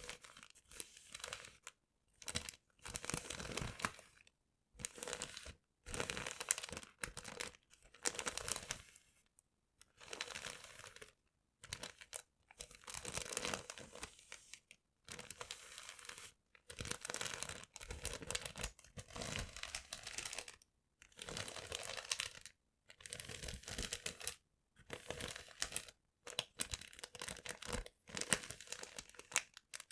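Paper handled close to the microphone for ASMR: repeated crinkling, rustling bursts, each about a second long, with brief silent gaps between them.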